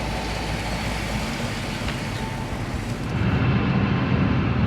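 A car's engine running with road noise while driving; about three seconds in the engine note grows louder.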